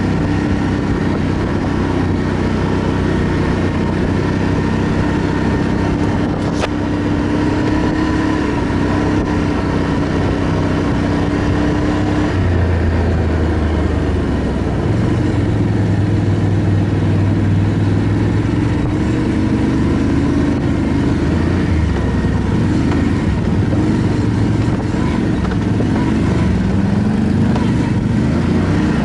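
ATV engine running under way, its pitch shifting up and down with the throttle, with a few short rising revs near the end.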